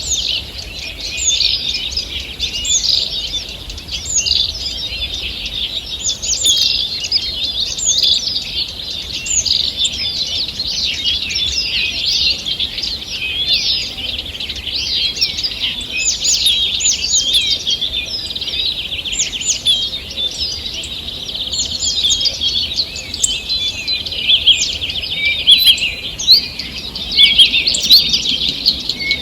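Morning dawn chorus of several songbirds singing at once: dense, overlapping chirps and trills with no pause.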